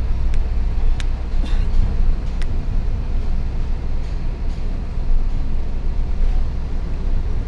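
Hino FL 260 JT truck's six-cylinder diesel engine running with a steady low rumble, with a few sharp ticks in the first couple of seconds.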